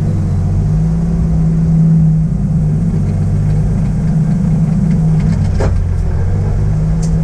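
Toyota 2JZ straight-six engine running steadily through a custom 3-inch stainless steel exhaust, heard as a low drone from inside the car's cabin. There is a brief swell about two seconds in.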